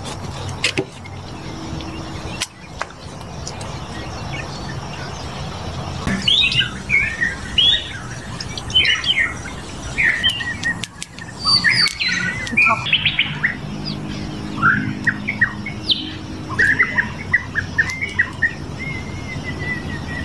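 Birds chirping and calling, many short chirps and trills following one another quickly from about six seconds in, over a low steady hum.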